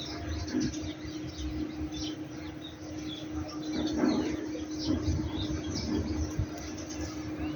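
Small birds chirping and twittering, many short high calls throughout, over a steady low hum and an irregular low rumble.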